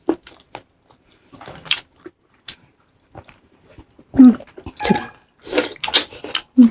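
Close-miked wet chewing and lip smacking from a person eating, sparse at first and louder and busier in the second half.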